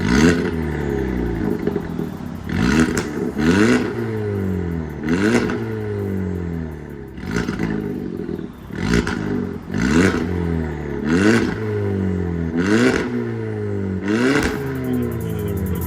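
Hyundai Elantra Sport's turbocharged 1.6-litre four-cylinder revved in about ten quick blips through an MS-R aftermarket full exhaust, each rising sharply and sinking back toward idle.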